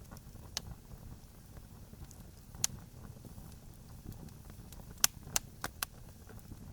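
Wood campfire crackling: scattered sharp pops and snaps over a low steady rumble, with a quick run of four pops about five seconds in, the first of them the loudest.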